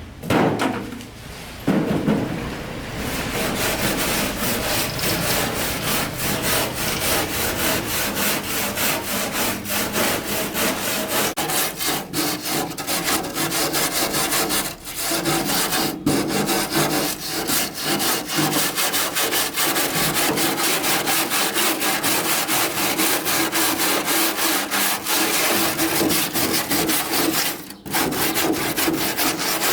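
Rapid, continuous scraping of a hand or power tool working on a part, with two loud knocks in the first two seconds and short breaks around halfway and near the end.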